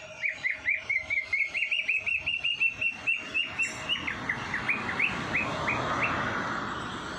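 A songbird singing a fast run of short, sharply repeated chirps, about five a second, that slows and falls in pitch over its last couple of seconds before stopping.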